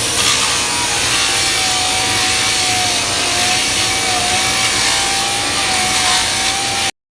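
Power grinder with a coarse-grit disc grinding thick Bondo body filler off a car's quarter panel, running steadily with a faint wavering whine, then cutting off suddenly near the end.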